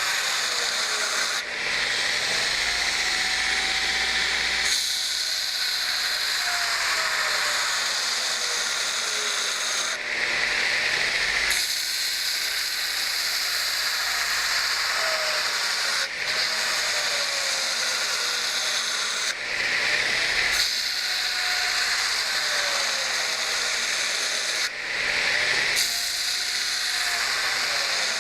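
Burr King variable-speed belt grinder with a 60-grit belt rough grinding a steel knife blade: a steady, loud grinding hiss that shifts every few seconds as the blade is worked across the belt in repeated passes. A faint motor whine slides up and down in pitch underneath.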